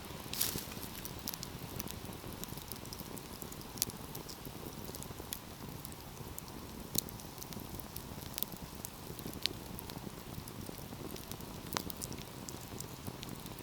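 Wood fire crackling, with a steady hiss and scattered sharp pops, a few of them louder.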